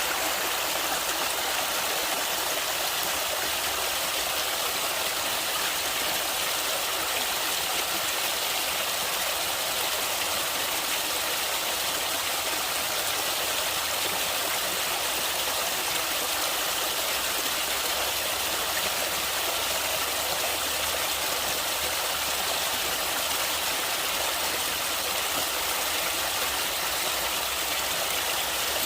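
Natural running water of a stream, a steady, even rush with no breaks.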